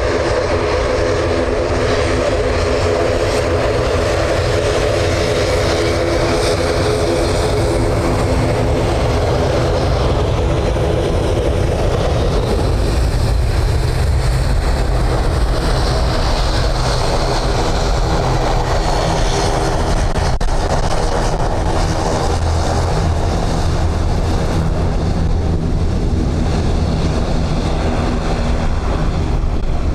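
Airbus A300 freighter's twin jet engines at takeoff power: a steady roar with a band of humming tones that fades about twelve seconds in, leaving a broad rumble.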